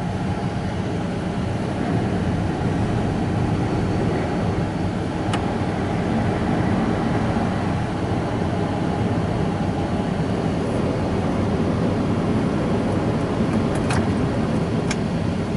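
Spinning cloth brushes of a Mark VII Choicewash XT rollover car wash scrubbing over the car, heard from inside the cabin as a steady washing noise, with a few faint clicks.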